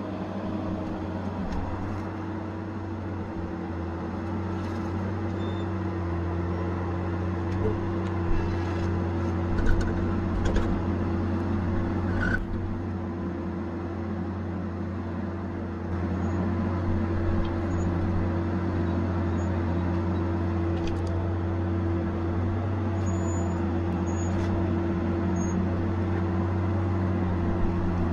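Tigercat 870C feller buncher running steadily with a constant low engine hum and a steady tone, a few sharp knocks near the middle, and getting a little louder about halfway through.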